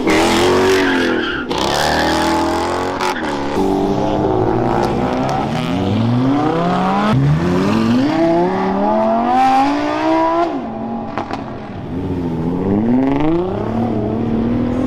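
Car engines revving hard and accelerating, their pitch climbing repeatedly and dropping back as they shift gears.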